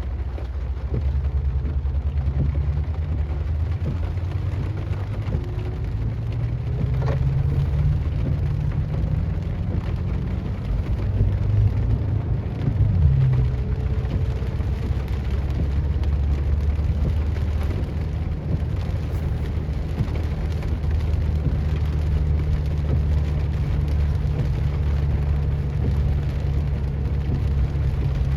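BMW M6 Competition's twin-turbo V8 engine running, its pitch shifting up and down about halfway through, with rain hissing over it.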